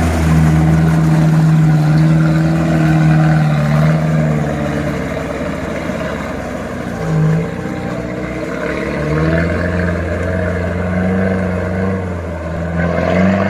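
Engine of a heavily loaded 4x4 pickup truck working through mud, holding a steady note for several seconds. It eases off with a short surge about seven seconds in, then picks up again at a slightly higher pitch.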